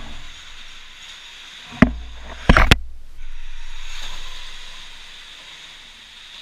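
Two sharp thumps, the second a short rattling clatter, then a rushing hiss that slowly fades.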